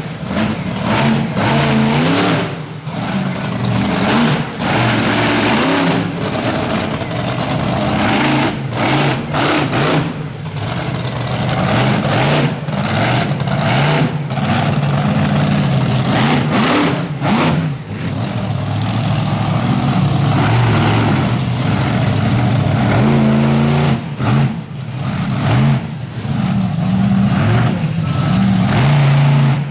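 Monster truck engine revving hard, the throttle lifted and reapplied again and again so the revs keep dropping briefly and climbing back, with longer stretches held at full throttle in the second half.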